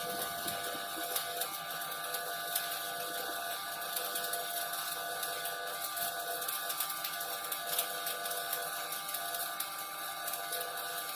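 Shielded metal arc (stick) welding arc crackling steadily on carbon steel pipe, a continuous dense sputter of fine pops over a hiss, with a faint steady hum underneath.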